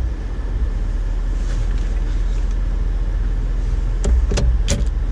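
Steady low rumble of a vehicle at idle, with a few sharp clicks about four seconds in.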